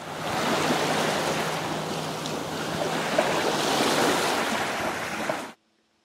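Ocean water washing and splashing with wind buffeting the microphone, a steady rushing noise that cuts off suddenly near the end.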